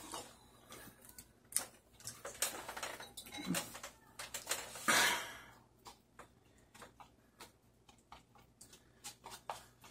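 Close mouth sounds of chewing a spoonful of rice mixed with tteokbokki sauce, with scattered small clicks and ticks and a brief rustle about five seconds in. Near the end a spoon clicks against the inside of a paper cup.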